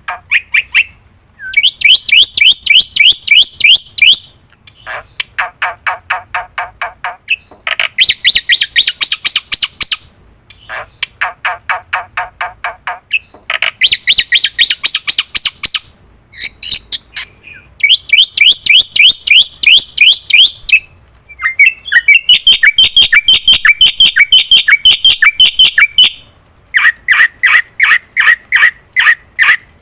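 Black-winged myna (jalak putih) singing loudly in bursts of fast, rapidly repeated notes. Each burst lasts two to three seconds with short pauses between, and the phrases alternate between lower and higher pitch. This is the vigorous, full song that bird keepers call 'gacor'.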